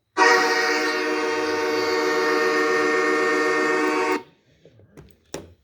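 A horn blast, one steady multi-note chord held for about four seconds and cutting off abruptly, followed by a brief click near the end.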